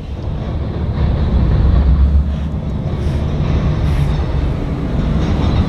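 CSX local freight train moving in reverse: a steady low rumble of diesel locomotive engine and rolling railcars, growing louder over about the first second.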